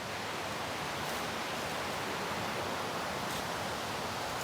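Steady rush of flowing creek water: an even hiss with no distinct events.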